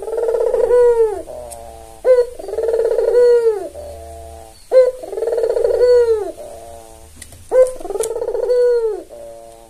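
Albino Barbary dove (puter) cooing. Four calls come about every two and a half seconds, each a short sharp note running into a long rolling coo that drops in pitch at the end and trails off in a few softer notes.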